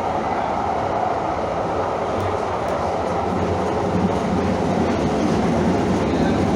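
Rail vehicle running steadily, a continuous even noise of wheels on track with no breaks.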